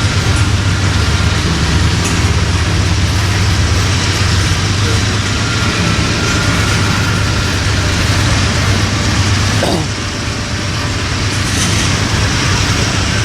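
Norfolk Southern train running by: a steady low rumble under a continuous noisy wash of wheels on rail, with a few faint thin high squeals.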